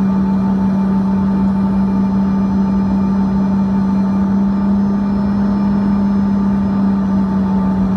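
Steady cabin drone of a Bombardier CRJ-200's rear-mounted General Electric CF34 turbofans in flight: a strong constant low hum with fainter steady whines above it, over an even rush of airflow.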